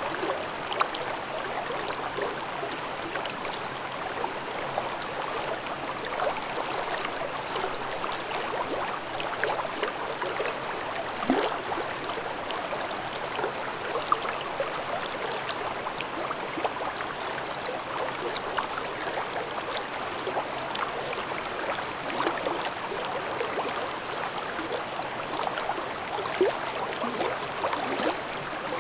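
Shallow mountain brook babbling over rocks: a steady rush of running water dotted with small plinks and splashes.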